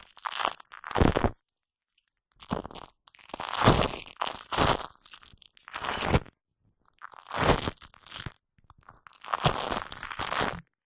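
Shaving foam squished and worked right against the microphone, in about eight short bursts of up to a second each with silent gaps between.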